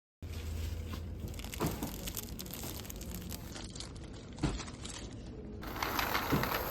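Crinkling and rustling of plastic packaging, with a few light knocks and a louder burst of crackling near the end.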